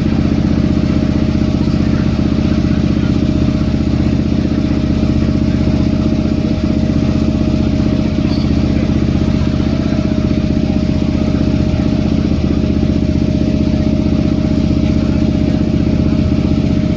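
Boat engine running steadily at constant speed, a loud, even drone.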